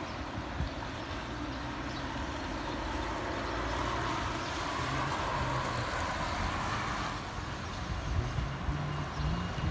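Town-centre street noise: a steady hum of traffic, with a vehicle passing that swells and fades in the middle.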